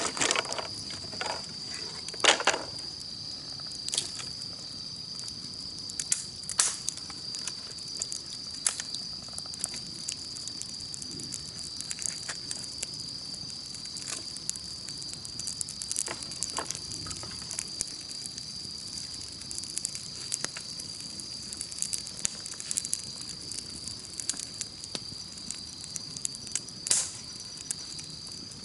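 Wood campfire crackling with irregular sharp pops, the loudest near the start and near the end, over a steady high-pitched chorus of insects.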